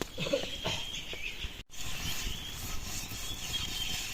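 Outdoor ambience: a steady hiss with faint, scattered bird chirps. The sound cuts out completely for an instant about one and a half seconds in.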